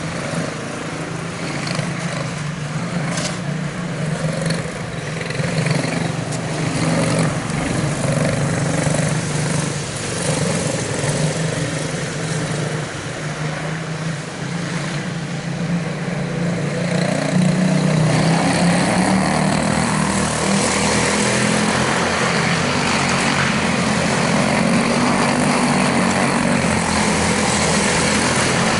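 Quarter midget race cars' small single-cylinder Briggs & Stratton Animal engines running on the track, a steady buzz that gets louder a little over halfway through.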